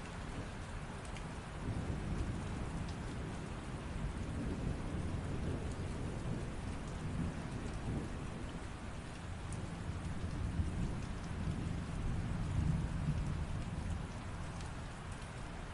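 Steady rain falling, with a long low rumble of thunder that swells about two seconds in and fades near the end.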